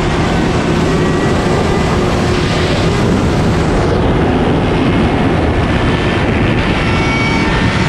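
Motorcycle engines: a loud, steady rush of engine noise, with faint engine notes rising in short steps as they climb through the revs.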